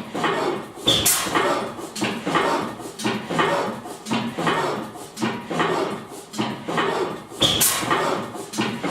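1897 Crossley 'Otto' vertical hot-tube gas engine running slowly, its valve gear and crank clattering about twice a second. Two sharper, louder beats come about six seconds apart, one about a second in and one near the end.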